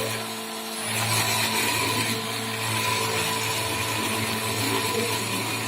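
CNC machine tool's spindle running steadily, a constant hum and whine, with a brief dip about half a second in.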